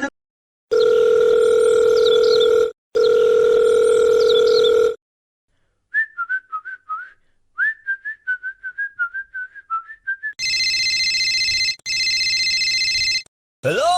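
Telephone tones: two long steady beeps, then a few seconds of short warbling chirps, then a long high electronic tone broken once by a brief gap.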